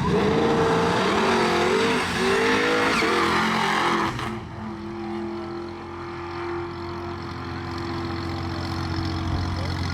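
Drag-racing engine at full throttle, its pitch rising and falling for about four seconds, then dropping off to a quieter steady engine drone.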